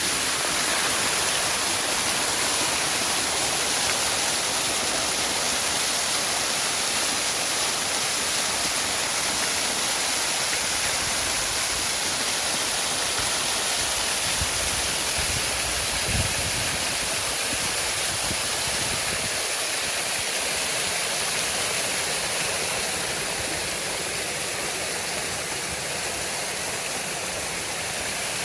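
Waterfall: a steady, dense rush of falling water, with a brief low rumble swelling and fading about halfway through.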